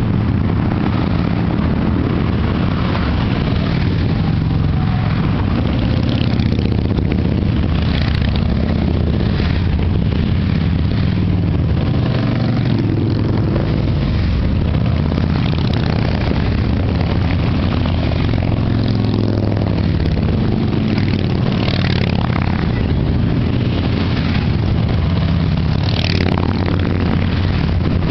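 Motorcycle engines running steadily, with a few louder swells as individual bikes rev or pass.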